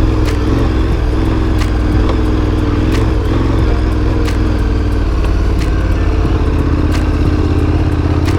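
Large adventure motorcycle's engine running while being ridden along a trail, holding a fairly steady speed with small throttle changes, and a sharp tick every second or so.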